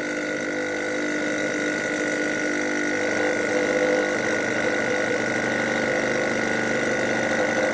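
A 12-volt air-ride compressor running steadily under load, a continuous motor whine as it pumps pressure up past 150 PSI.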